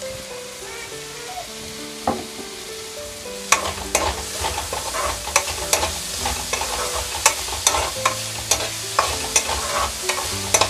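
Chopped onions, tomato and green chilli frying in oil in a metal pan, sizzling. From about three and a half seconds in, a spatula scrapes and knocks against the pan in an uneven rhythm of roughly two strokes a second as the mixture is stirred.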